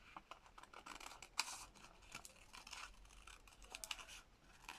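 Scissors snipping through paper in short, irregular cuts while fussy-cutting around a cut-out shape, with one louder snip about a second and a half in.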